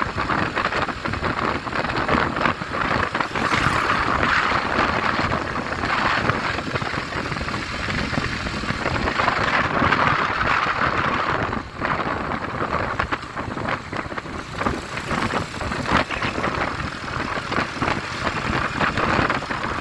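Strong sea wind and heavy surf: a loud, rough rushing noise that rises and falls in gusts, with a brief lull a little before the middle.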